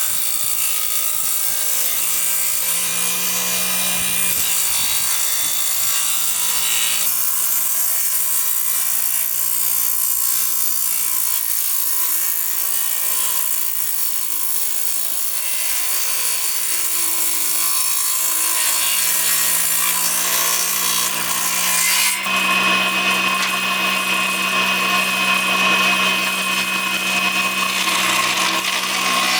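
Power tool working wood: a steady motor hum under rasping, sawing-like noise. The sound changes abruptly about seven seconds in and again a little past twenty seconds.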